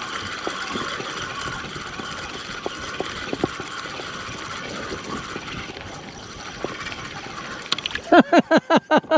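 Water lapping and sloshing against a kayak hull as a steady hiss, with a few light knocks. Near the end comes a quick run of loud, high, falling cries, several a second.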